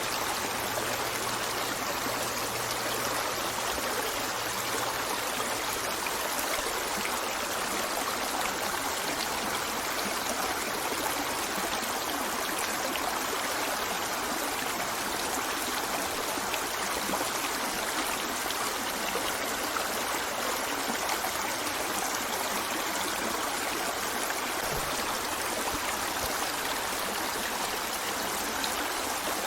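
River water flowing steadily over rocks: a continuous rushing and trickling with no breaks.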